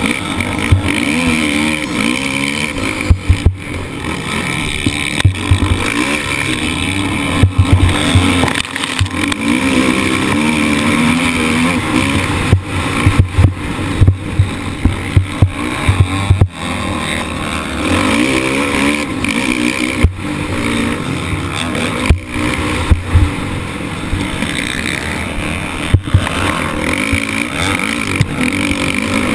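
Motocross bike engine revving up and falling back again and again as the rider works through the gears on the track, with frequent sharp knocks from the bike over bumps and landings, and low buffeting rumble on the mounted camera.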